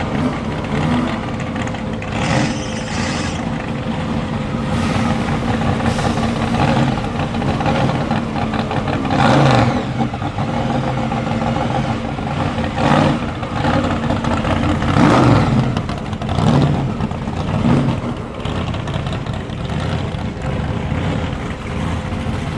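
Car engines running, with several short, louder revs swelling up and dying away over a steady rumble.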